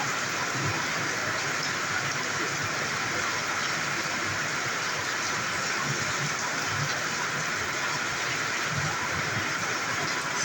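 Steady hiss of light rain falling, with occasional low bumps underneath.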